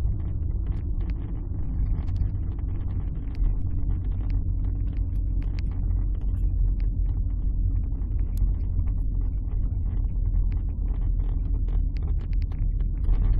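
Alfa Romeo 156 heard from inside the cabin while driving: a steady low rumble of engine and road noise, with scattered light clicks and rattles.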